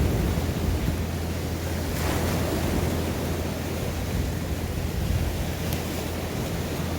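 Sea waves washing onto the shore, a steady rushing noise, with wind rumbling on the microphone.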